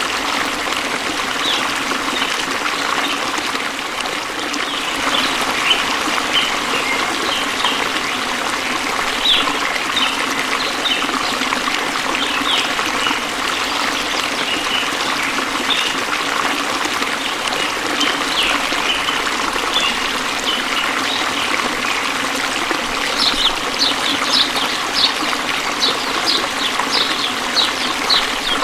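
Waterfall water splashing and trickling in a steady rush, with many short high-pitched ticks over it that come thicker for the last few seconds.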